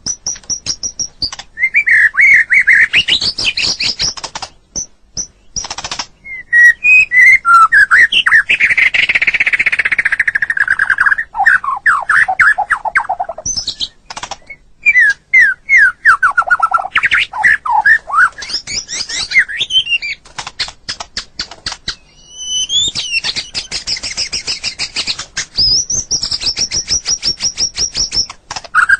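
White-rumped shama (murai batu) singing a long, varied song of fast whistled notes, sweeping phrases and trills, with a few short pauses between phrases.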